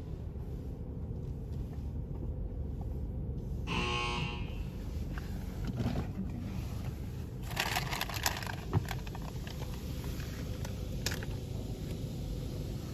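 Steady low rumble of a car idling, heard from inside the cabin. A short electronic beep comes about four seconds in, and a brief burst of hiss and clicks ends in a single knock near eight seconds.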